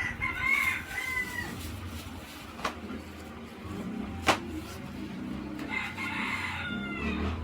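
Rooster crowing twice, once at the start and again near the end, each crow a drawn-out call with falling pitch. Between the crows come two sharp clicks, the second the loudest sound.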